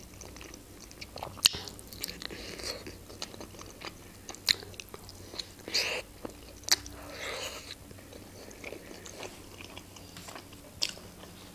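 Chewing and eating sounds of a person eating khinkali dumplings: soft wet chewing with sharp lip smacks and mouth clicks every second or so, a few louder ones around the middle.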